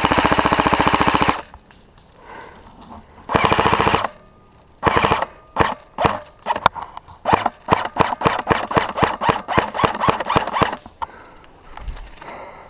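Airsoft gun firing close by: a long full-auto burst, a second shorter burst, then a run of rapid single shots, about three or four a second, that stops a couple of seconds before the end.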